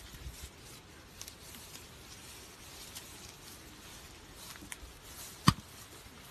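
Faint outdoor background with a few small ticks and one sharp knock about five and a half seconds in.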